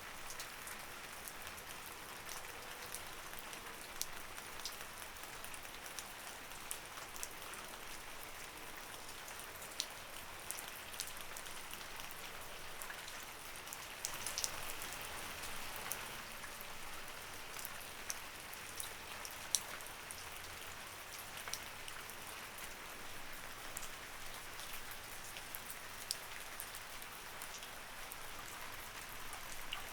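Light rain falling steadily, a soft even hiss with individual drops ticking sharply here and there on a hard surface.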